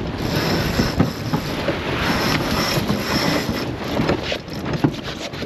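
Steady rushing of wind and water aboard a racing sailboat under way in the rain, with wind buffeting the microphone and scattered knocks and clicks of deck gear.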